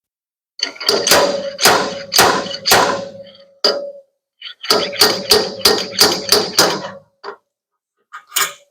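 Hammer blows on the truck's sheet-metal bed panel while dents are worked out: two runs of sharp metallic strikes, about six and then about seven quicker ones, each leaving the panel ringing, with a couple of lighter taps near the end.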